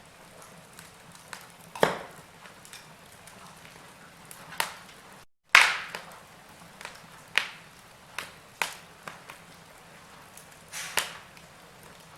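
Wood fire crackling in a fireplace: sharp, irregular pops and snaps over a soft hiss. About five seconds in the sound cuts out to silence for a moment, then comes back with one of the loudest pops.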